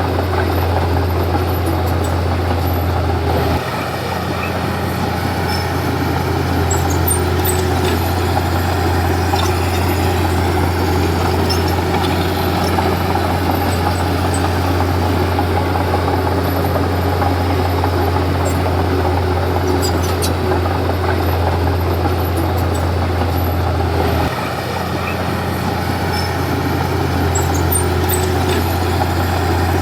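Komatsu D31P bulldozer's diesel engine running steadily at work, its note dropping briefly about four seconds in and again near the end before climbing back. A few faint metallic clinks sound over it.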